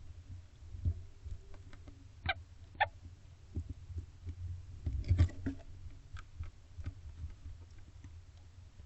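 Barn owl giving two short, squeaky little calls about two seconds in while feeding on a rabbit, amid scattered tearing and shuffling noises, with a louder scuffle about five seconds in. A steady low hum runs underneath.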